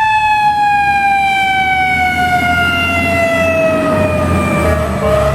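Fire truck siren wailing: its pitch peaks at the start and then slowly winds down over about four seconds, over the low rumble of the truck.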